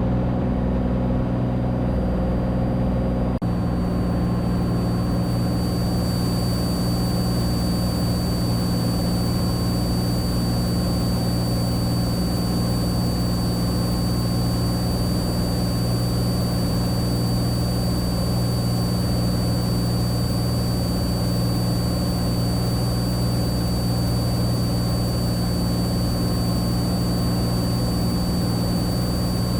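Cessna 182T's six-cylinder Lycoming engine and propeller running at a steady cruise-climb setting, a constant low drone heard inside the cabin.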